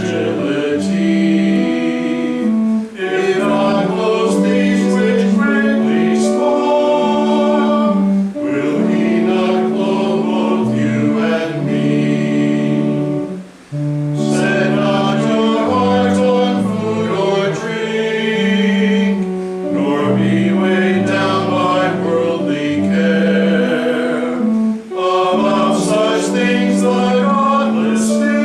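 A hymn sung by voices with instrumental accompaniment, in long held phrases with short breaks between them.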